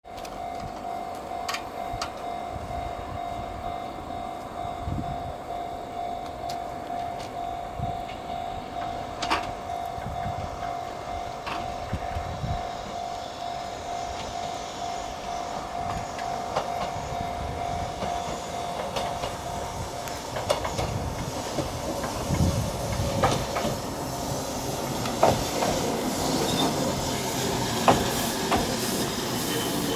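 A level-crossing warning bell rings in steady rapid pulses and stops about two-thirds of the way through, while a Konan Railway 7000 series electric train (ex-Tokyu 7000 series) approaches and pulls into the platform. The train's running noise and wheel clicks on the rails grow louder near the end.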